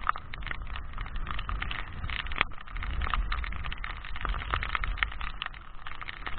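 Strong wind buffeting the microphone, with a dense, irregular crackle of heavy rain hitting and rustling a plastic rain cape.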